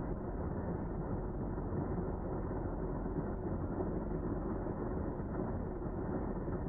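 Car driving along the road, heard from inside the cabin: a steady, low road and engine rumble.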